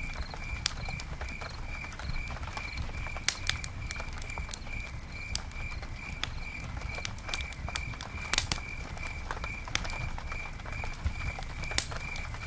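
Campfire burning, the wood crackling and snapping in irregular clicks over a low rumble of flame, with a few louder pops about three, eight and twelve seconds in. A steady high chirp repeats about three times a second throughout.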